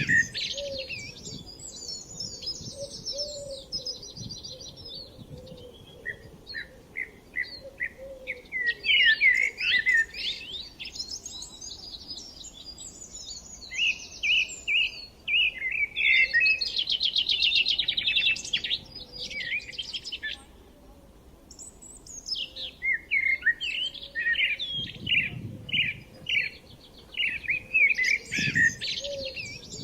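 Several songbirds singing and chirping at once in quick, overlapping phrases. A fast trill runs for a few seconds in the middle, followed by a short lull.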